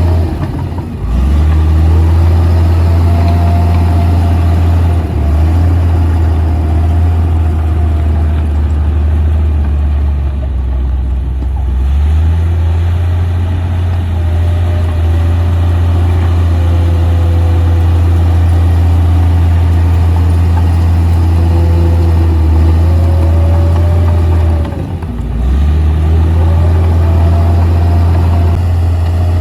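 Komatsu D58P bulldozer's diesel engine running steadily under load, with a higher whine above it that rises and falls in pitch. The engine note briefly drops about a second in and again near the end.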